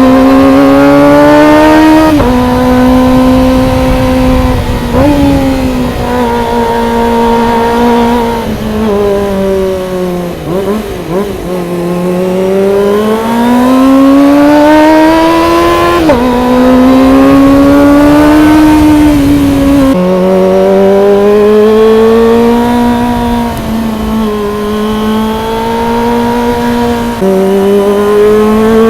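Kawasaki ZX25R's 249 cc inline-four engine revving hard through the gears: its pitch climbs high, then drops sharply at each upshift. Near the middle the throttle eases off and the pitch sinks and wavers, then it climbs again through several more shifts.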